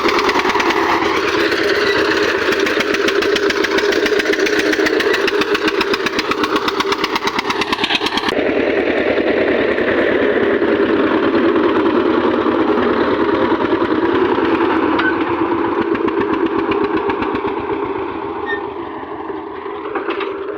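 Eicher tractor's diesel engine running steadily at idle, with a rapid, even firing beat; it gets a little quieter near the end.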